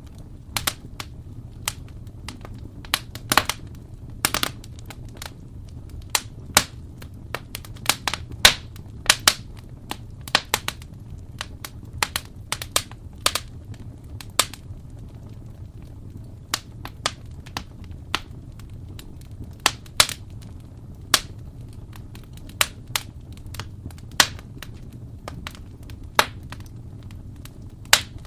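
Wood fire in a fireplace crackling, with sharp irregular pops and snaps over a steady low rumble of burning.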